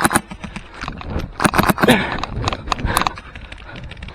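Airsoft guns firing: scattered sharp cracks, with a quick string of shots about a second and a half in and a few more around three seconds. It gets quieter near the end.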